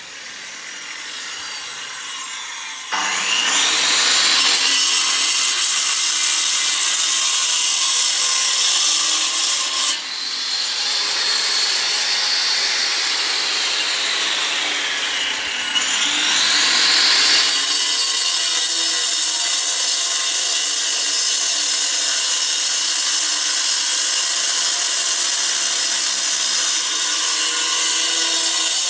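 A handheld power tool runs under load with a harsh, steady grinding noise. Between about ten and seventeen seconds in, its pitch sags and then climbs again.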